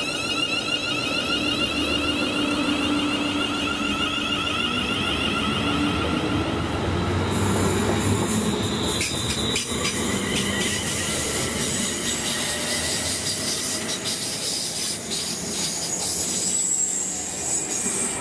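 A train running along the line past the station: a steady high whine fades out a few seconds in, then a rush of wheel-on-rail noise follows, with a run of clicks as the wheels cross rail joints.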